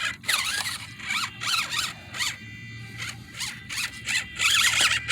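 Small RC crawler's electric motor and gears whining in short bursts as the throttle is blipped, the pitch rising and falling with each burst, with a steadier whine about halfway through while the truck is hung up on rocks.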